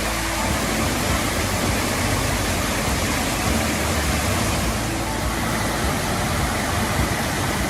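Mallyan Spout waterfall: a steady, unbroken rush of falling water splashing onto rocks.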